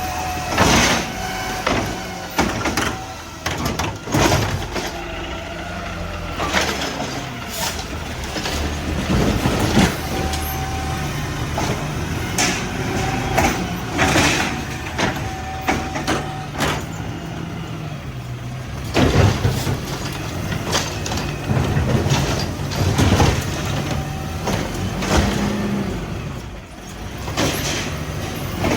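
Mack garbage truck running at work, its engine pitch stepping up and down, with repeated bangs and clanks and hissing bursts from the air brakes.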